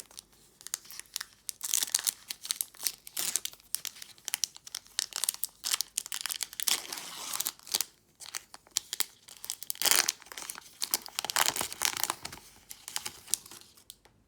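Foil Pokémon booster pack wrapper being crinkled and torn open by hand, in irregular crackly rustles.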